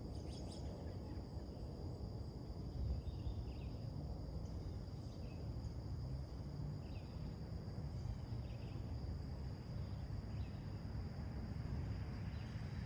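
Summer morning outdoor ambience: a steady high insect trill and scattered short bird chirps over a steady low background rumble.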